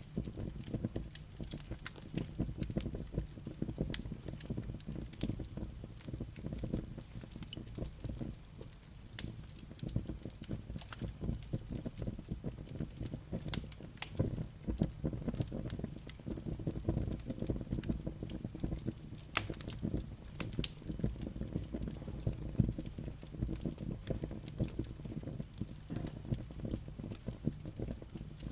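Wood fire burning in a fireplace: a low steady rumble of flames with frequent sharp crackles and pops from the burning logs and embers.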